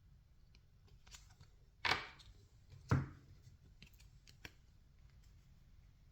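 Baseball trading cards being handled and flipped through, with two louder sharp card sounds, one about two seconds in and one about three seconds in, and a few faint ticks between.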